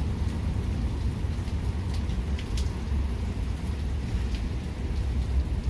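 Rainstorm: steady rain with a low rumble underneath and a few sharp drip taps, about two and four seconds in.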